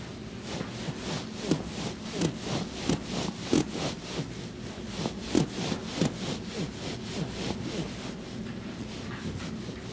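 Hands rubbing over skin and clothing in quick, repeated massage strokes, about three a second, easing off near the end.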